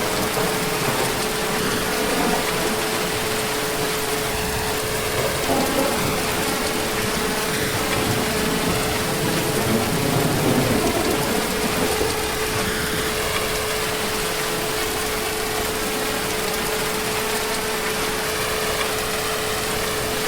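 Heavy, steady rain with a low rumble of distant thunder swelling around the middle. A thin steady tone runs underneath throughout.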